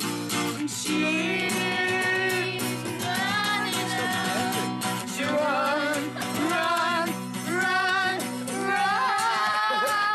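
Voices singing a song together to a strummed acoustic guitar.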